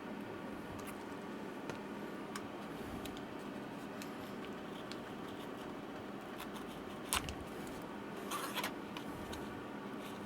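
Quiet handling of tools and parts on an open laptop while its battery is pried loose: scattered faint clicks, a sharper click about seven seconds in and a short scrape just after eight seconds, over a steady low hum.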